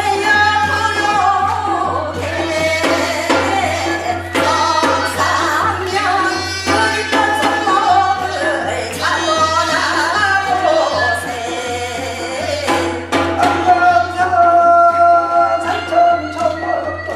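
Korean Gyeonggi folk song sung in the fast hwimori japga style: a continuous sung melody with quick, ornamented turns in the voice, over drum strokes.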